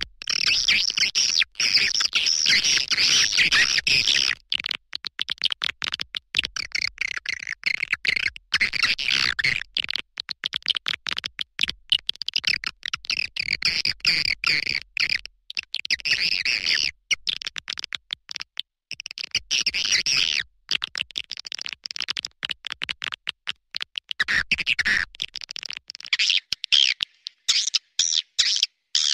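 Swiftlet call lure recording: dense, rapid high twittering chirps in stretches of a few seconds with short gaps between, the kind of sound played to draw swiftlets to a nesting house.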